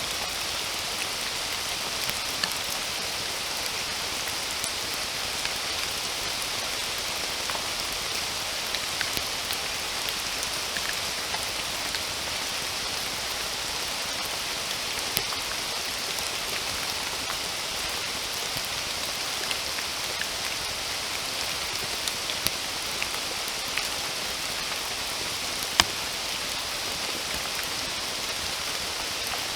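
Steady rain falling, an even hiss with many scattered individual drops ticking; one sharper drop stands out about 26 seconds in.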